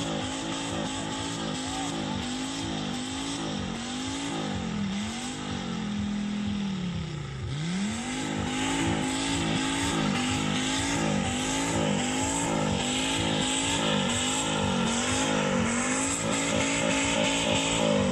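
Volvo 850 2.5 TDI's five-cylinder turbodiesel, on a straight-through exhaust, revved in quick repeated blips, its pitch rising and falling about once or twice a second. About seven seconds in, one longer rev falls off, and the revving gets louder after it.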